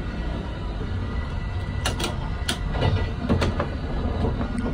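Steady low rumble of the Kintetsu Hinotori express train running, heard inside a car. A few sharp clicks and knocks come about two seconds in and again around three and a half seconds in.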